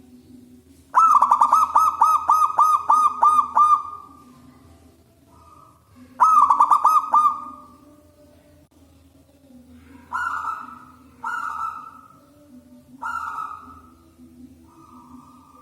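Zebra dove (perkutut) cooing. A long run of about ten quick staccato coos comes about a second in, a shorter run around six seconds, then three separate single coos.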